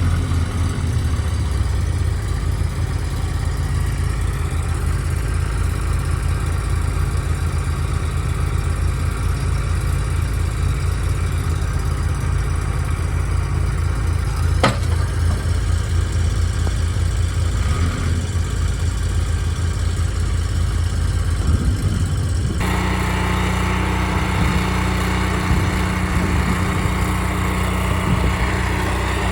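Engine running steadily at idle, with one sharp click about halfway through. About three-quarters of the way in its note changes abruptly and takes on more high-pitched noise.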